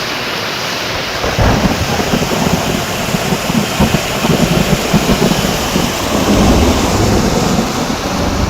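Heavy rain falling steadily, with a long roll of thunder that builds about a second and a half in and rumbles on for several seconds.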